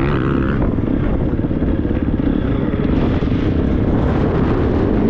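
Triumph 250 motocross bike's single-cylinder engine running hard under throttle while riding, its note wavering up and down with the throttle.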